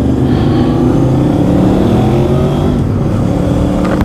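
Motorcycle engine pulling away and accelerating through the gears, its pitch rising and then dropping back at each shift.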